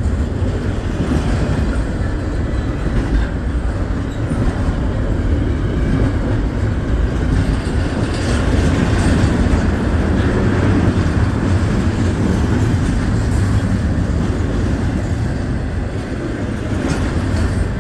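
Norfolk Southern freight train's cars rolling past at speed: a steady, loud noise of steel wheels running on the rails.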